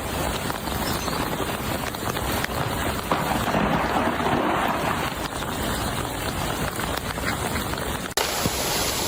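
Steady rushing outdoor noise from ice-storm footage, a dense hiss with faint crackles in it. It cuts off about eight seconds in and is replaced at once by a similar hiss.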